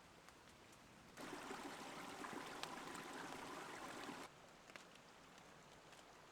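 Rushing, water-like noise like liquid pouring or running, starting about a second in and stopping abruptly about three seconds later, over faint scattered clicks.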